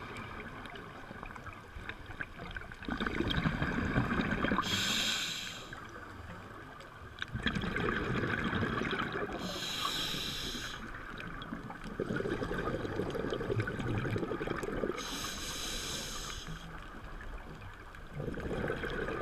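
Scuba diver breathing through a regulator underwater: three hissing inhalations about five seconds apart, alternating with low rumbling bursts of exhaled bubbles.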